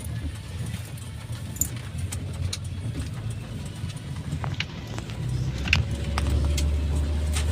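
Car on the move, heard from inside the cabin: a steady low road and engine rumble with scattered small clicks and rattles. The rumble grows louder over the last couple of seconds.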